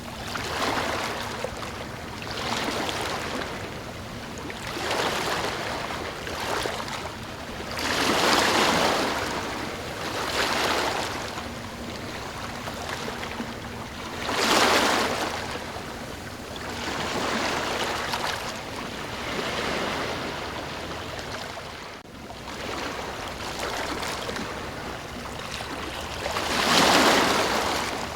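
Ocean waves breaking and washing ashore in repeated surges of rushing water every few seconds, the biggest about a third of the way in, halfway through and near the end.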